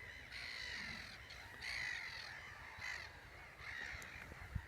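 Birds calling, about five drawn-out calls one after another, with a single low knock near the end.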